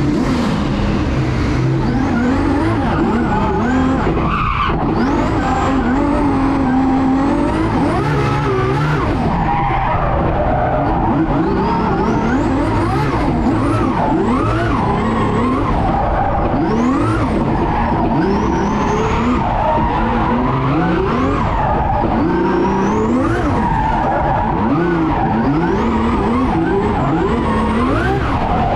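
A car engine revving up and down again and again under hard driving, with tyres squealing.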